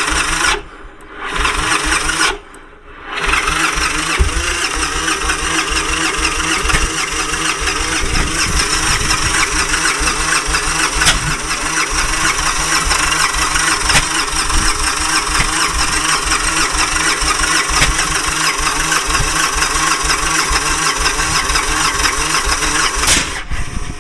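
Victory Kingpin V-twin being cranked by its electric starter: a few short cranks, then one long crank of about twenty seconds with irregular pops, the engine never catching before the starter stops near the end. The engine won't start because its front and rear spark plug wires are swapped.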